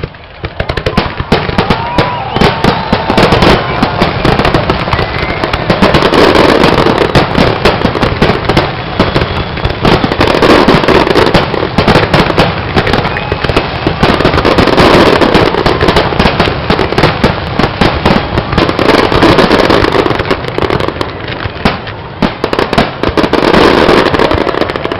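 Large fireworks display: a dense, continuous barrage of bangs and crackling, with louder swells every few seconds.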